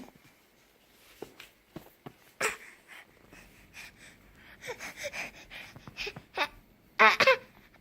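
A nine-month-old baby's breathy huffs and small vocal noises with a few light clicks, then a short, loud, cry-like squeal about seven seconds in.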